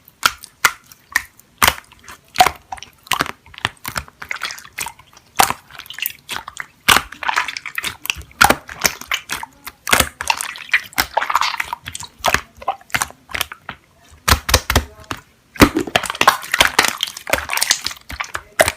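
Slime being squeezed and kneaded by hand, with sticky wet squelching and many sharp pops and clicks from air pockets bursting, sometimes in quick runs.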